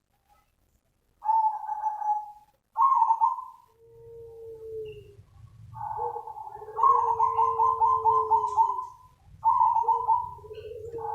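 Zebra dove cooing: short phrases of quick, rippling coo notes, with a long trilled phrase in the second half, overlapped by a lower drawn-out coo from about four seconds in.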